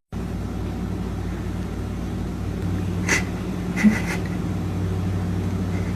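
Steady low hum of a running engine or motor, with a few faint clicks about halfway through.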